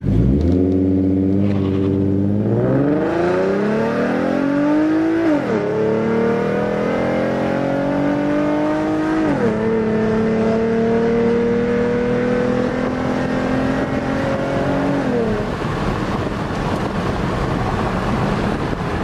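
2015-2017 S550 Mustang 3.7 L V6 with BBK long-tube headers, catted H-pipe, stock resonator and Roush axle-back mufflers, accelerating hard: the exhaust note climbs, drops sharply with upshifts about five and nine seconds in and climbs again, then falls away as the driver lifts off near the end, leaving road and wind noise.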